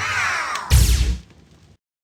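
Television editing sound effect: a falling whoosh that ends about two-thirds of a second in with one loud, deep hit, which fades out and cuts to dead silence just before the end.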